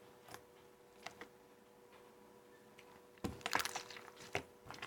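Slime being squeezed and worked by hand, giving sharp little clicks and pops: a few scattered ones, then a quick run of them about three seconds in.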